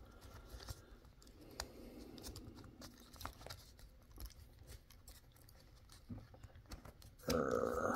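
Faint scattered clicks and rubbing of fingers handling the small plastic roll cage and interior tub of a Traxxas TRX-4M mini crawler, working the interior loose. Near the end a short burst of muttered voice.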